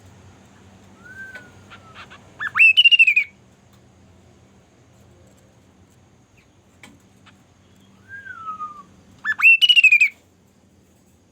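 A bird calling twice, about seven seconds apart: each time a soft falling whistle, then a loud, harsh call that rises and then falls in pitch.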